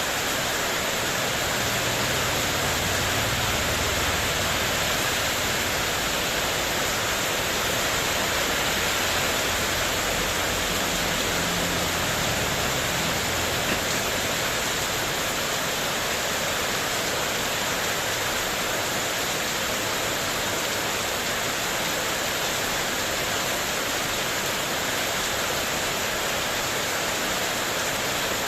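Heavy rain drumming steadily on spandek corrugated metal roof sheeting, with wind gusts rumbling low in the first half.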